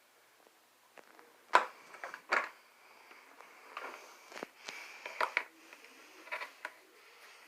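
Irregular knocks, clicks and rustling in a small room, about a dozen sharp sounds spread over several seconds, the loudest about one and a half seconds in.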